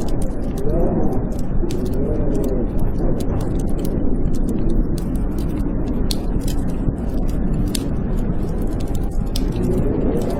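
Blizzard wind howling, a wavering whistle that rises and falls over a steady low rush, mixed with the frequent sharp pops and crackles of a fireplace fire burning.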